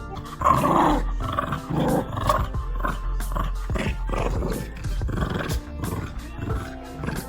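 Papillon dogs growling in a string of short, rough bursts, over background music.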